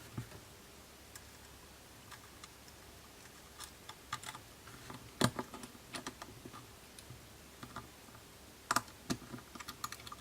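Scattered light clicks and taps from handling small phone parts and tools during iPhone 6s reassembly. The sharpest click comes about five seconds in, with a quick cluster of taps near the end.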